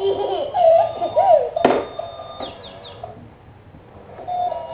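A toddler playing with a toy car: wavering high voice-like sounds, then a single sharp knock about a second and a half in, followed by a few quick high chirps.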